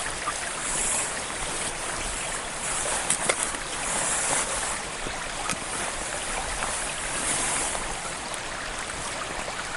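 Steady rush of a flowing stream, with several short, high scraping hisses over it, typical of a ferro-rod fire starter being struck to light tinder.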